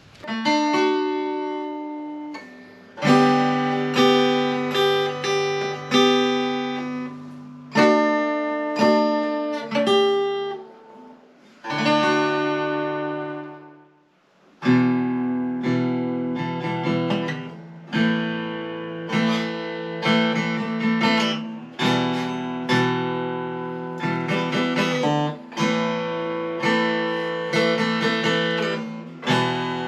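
Acoustic guitar music: chords strummed and plucked about once a second, each ringing and fading before the next, with a short pause about fourteen seconds in.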